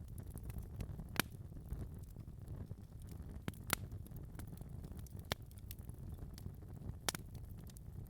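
Wood fire burning in a fireplace: a steady low rumble of flames with sharp, irregular crackles and pops, a few louder pops a second or two apart.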